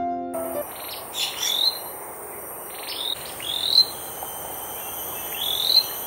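Tailorbird calling: a short note sweeping up to a high pitch, given three times about two seconds apart, over a steady high insect drone. Piano music fades out just under a second in.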